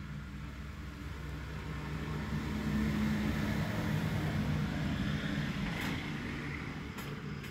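A motor vehicle passing by: engine and road noise swell to a peak about three seconds in, then fade, over a steady low hum, with a few sharp clicks near the end.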